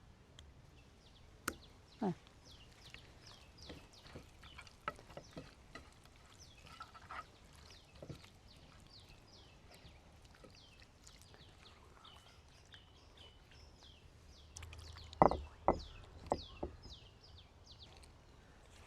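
Small birds chirping steadily, many short falling chirps, with a few sharp knocks, the loudest a quick cluster about fifteen seconds in.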